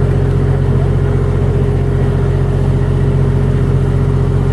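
An engine running at a steady, unchanging speed: a constant low drone.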